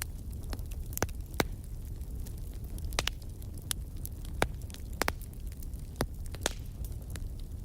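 Wood fire crackling, with irregular sharp pops about once or twice a second over a steady low rumble of flames.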